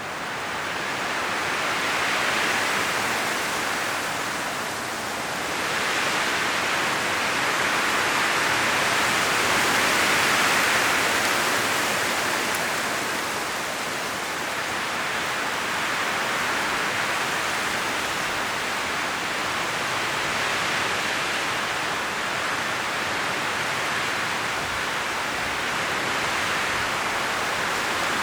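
Strong wind blowing through autumn forest trees, a steady rush of rustling leaves that swells in gusts and eases between them.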